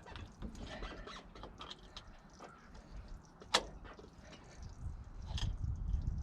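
Scattered light clicks and scrapes of handling, with a sharp knock about three and a half seconds in, a second, weaker knock near five and a half seconds, and a low rumble rising near the end.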